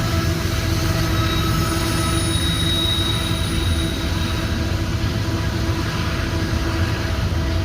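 CN freight train rolling past, its railcars rumbling steadily, with a thin high wheel squeal coming through about three seconds in.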